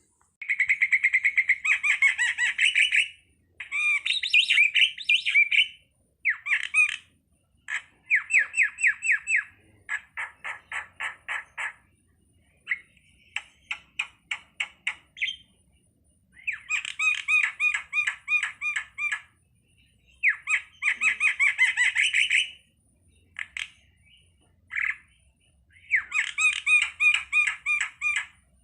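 Starling (jalak) calling: a dozen or so bursts of rapid, harsh repeated notes, each burst lasting one to three seconds, with short pauses between them.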